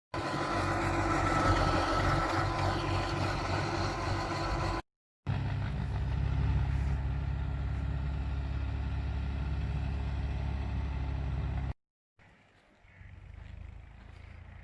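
Fiat 480 tractor's three-cylinder diesel engine running steadily, heard in three edited clips separated by short silent cuts about 5 and 12 seconds in. The last clip is much quieter.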